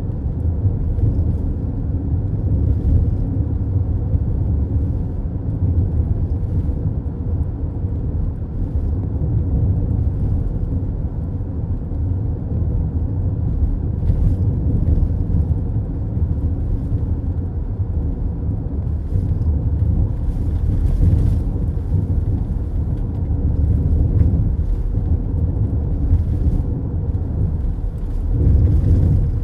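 Steady low road rumble inside a moving car: tyre and engine noise while cruising.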